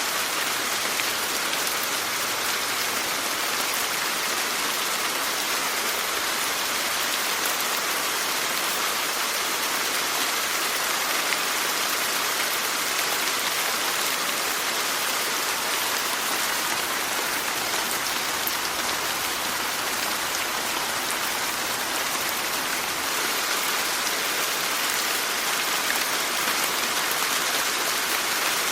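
Steady rainfall, a dense even hiss of drops landing on a surface, with small scattered drop ticks.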